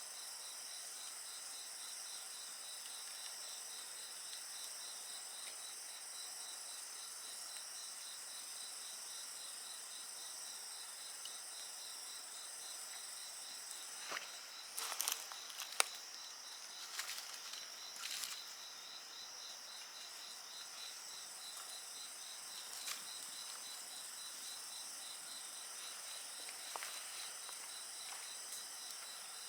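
A steady chorus of crickets and other insects, one with a rapid pulsing trill, runs throughout. A wood fire crackles faintly over it, with a quick cluster of pops about halfway through and a couple of single pops later.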